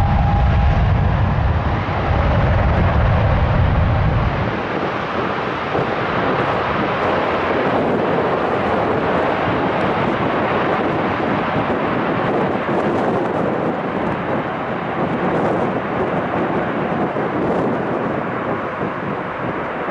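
Jet aircraft engine noise, a loud, steady rushing sound. A deep low rumble runs underneath until about four seconds in, then cuts off abruptly.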